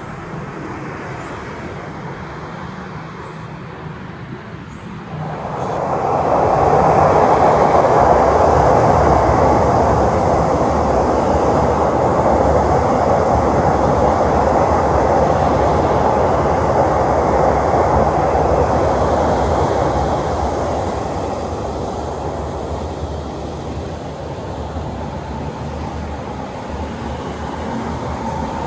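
State Railway of Thailand rapid passenger train passing at speed: a steady rolling rumble of wheels on rail that comes in sharply about five seconds in, holds for about fifteen seconds, then eases off, building again slightly near the end.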